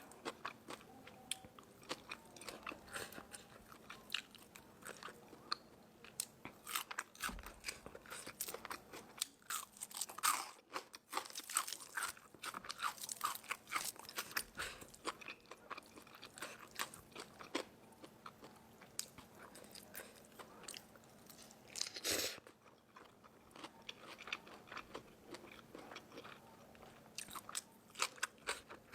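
A person chewing crisp food close to the microphone: rapid runs of crackly crunching bites and chews with short pauses between them, the loudest crunch about ten seconds in.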